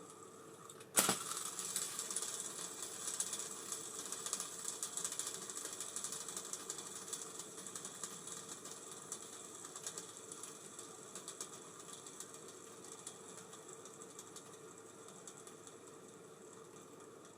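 Spool of an Abu Garcia Ambassadeur 5500C baitcasting reel set spinning with a sudden start, then running on freely with fast fine mechanical ticking from its gears and slowly winding down.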